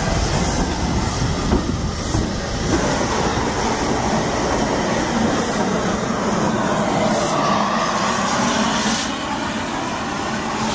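Southern Railway S15 class steam locomotive No. 847 and its coaches rolling slowly past at close range, a steady rumble of steel wheels on the rails with irregular clicks over the rail joints.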